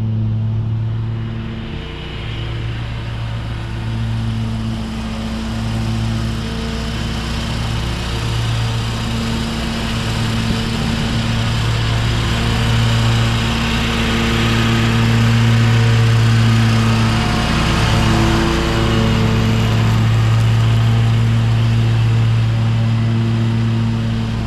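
Lawn mower engine running steadily under load, with the whir of the cutting deck mulching leaves; the noise swells somewhat in the middle.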